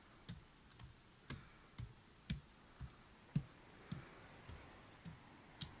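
Footsteps climbing a steep walkway, about two steps a second, each a soft low thud with a faint click.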